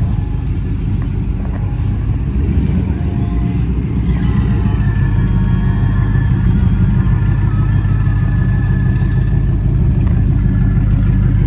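Car engine running with a steady low rumble, and a faint higher whine through the middle.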